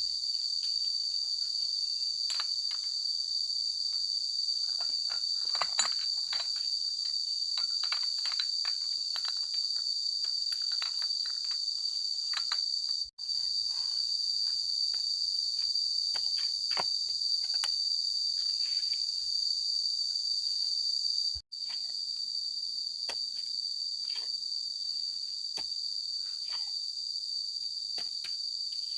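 A steady chorus of insects, a continuous high-pitched buzz, with scattered light clicks and taps underneath. It cuts out for an instant twice.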